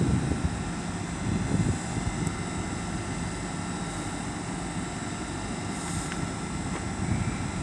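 Great Western Railway Hitachi Class 800 bi-mode train pulling away from the platform: a steady low rumble with faint steady tones above it.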